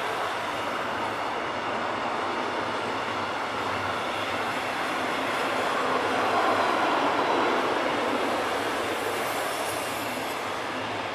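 Long intermodal freight train of container and trailer wagons rolling past at speed: a steady rumble and rattle of wheels on rail, swelling louder about six to eight seconds in, with a faint high squeal near the end.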